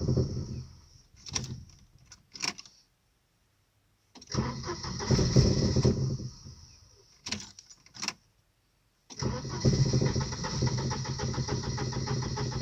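Volvo 940 Turbo's turbocharged 2.3-litre four-cylinder engine stalling and restarting: it dies within the first second, catches again and runs for about two seconds before fading out, then starts a third time about nine seconds in and keeps running steadily. A few sharp clicks come between the attempts. The stalling comes from a car long parked with little fuel in the tank, and the owner thinks the fuel pump relay is the culprit.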